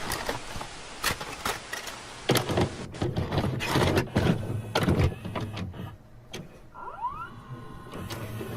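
A string of irregular knocks and clicks over a steady hiss, with a short rising squeak about seven seconds in.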